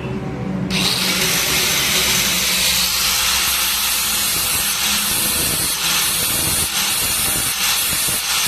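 Power tool grinding metal: a steady, harsh hiss that starts abruptly about a second in and carries on without a break.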